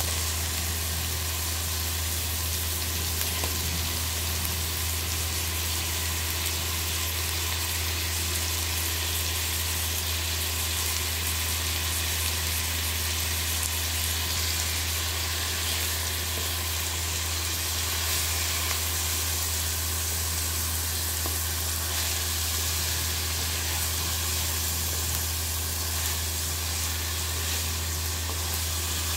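Chicken pieces frying with tomatoes and onions in hot oil in a pan: a steady sizzling hiss, with a steady low hum underneath.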